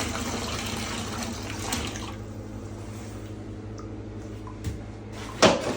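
Water running from a tap into a bathtub, filling it for a leak test, stops about two seconds in. A single sharp knock comes near the end.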